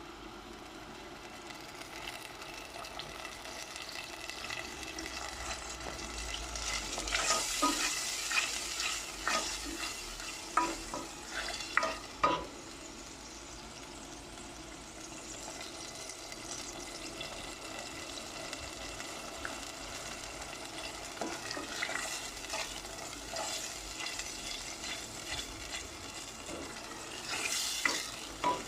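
Brussels sprouts frying in olive oil with a steady sizzle, and a utensil stirring and scraping the pan in a burst of clicks about a quarter of the way in and again near the end.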